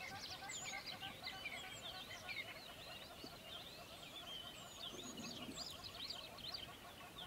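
A flock of small birds chirping and twittering together in a dense, continuous chorus of quick high chirps.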